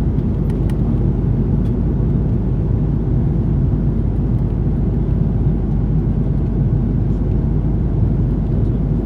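Steady low rumble inside the cabin of an Airbus A330-300 airliner, with a few faint clicks in the first two seconds.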